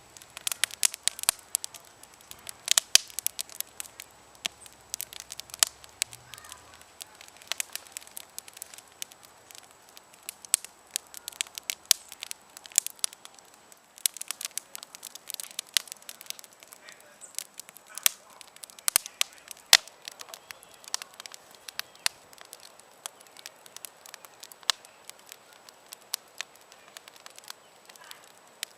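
Campfire crackling, with frequent irregular sharp pops and snaps over a soft hiss.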